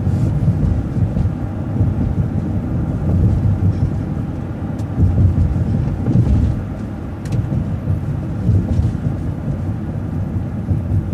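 Transit bus driving along a city street, heard from inside: a steady low rumble of engine and road noise, with a few faint clicks.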